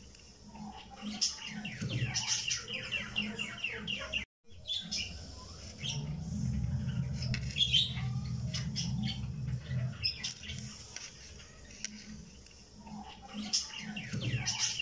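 Bird chirping in two quick runs of short, rapid chirps, one near the start and one near the end. A low steady hum sits in between.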